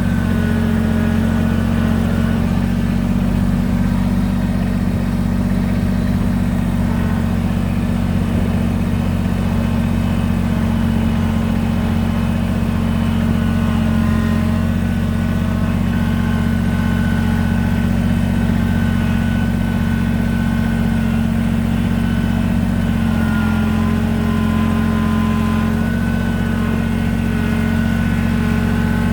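Kubota BX23S compact tractor's three-cylinder diesel engine running steadily as the tractor drives along.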